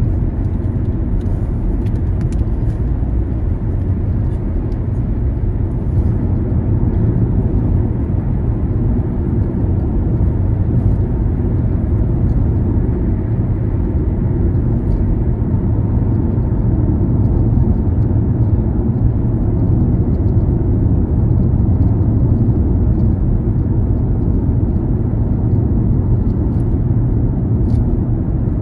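A car driving along: the steady low rumble of its road and engine noise.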